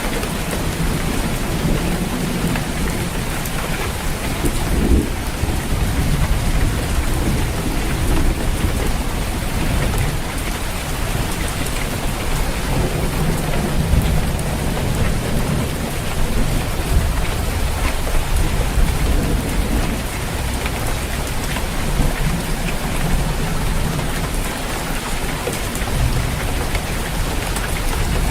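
Heavy rain falling steadily on a roof, with thunder rumbling low and swelling several times.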